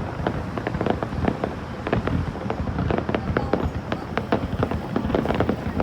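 Fireworks display going off: a dense, irregular run of cracks and pops from bursting shells over a steady low rumble.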